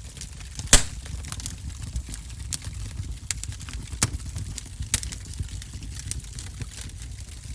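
Wood fire in a fireplace crackling: sharp, irregular pops over a low steady rumble, with the loudest pop coming just under a second in.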